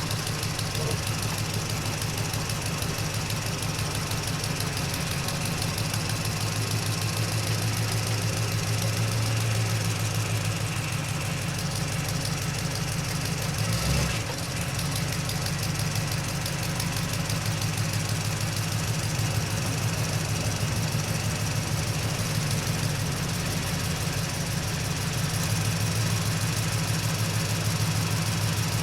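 Truck engine running steadily while driving, a low drone with fast, even engine pulses. There is a brief thump about halfway through.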